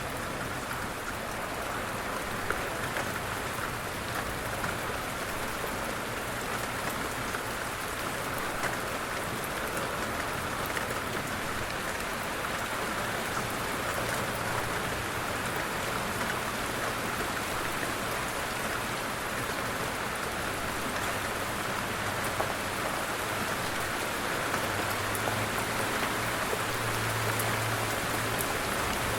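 Light rain falling steadily, an even hiss of many small drops.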